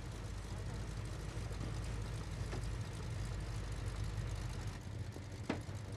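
The V8 engine of a 1972 Dodge Challenger idling with a steady low rumble. The rumble drops away near the end, followed by a sharp click.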